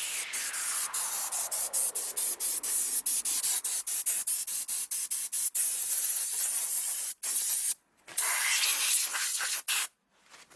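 Abrasive blasting gun spraying media onto a metal transmission case: a steady high hiss of air and grit, broken by many brief breaks, stopping fully for a moment a few times near the end. A faint falling tone sweeps down over the first few seconds.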